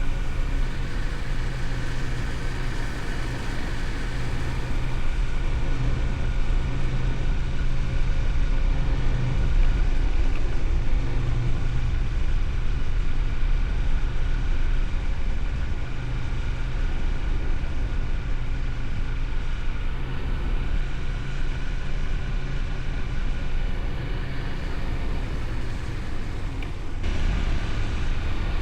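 Honda VTR250's 250 cc V-twin engine running at a steady cruising speed under way, its note holding level with little change in revs.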